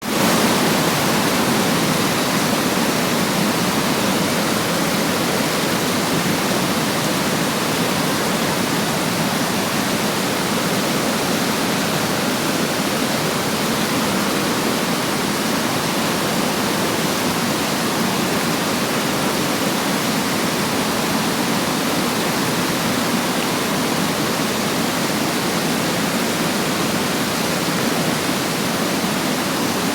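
Water rushing down a stepped waterfall as a loud, steady, unbroken rush.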